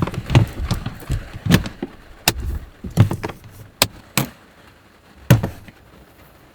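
Irregular knocks, taps and clunks, about a dozen of them with a few sharp clicks among them.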